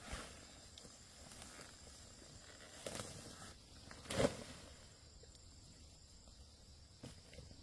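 Faint steady insect chirring, with a few short rustles and one louder thump about four seconds in.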